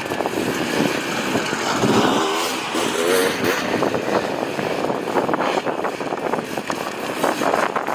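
Hard enduro dirt bike engine revving on an uneven throttle, its pitch wavering up and down about two to three seconds in, over a dense rattly noise.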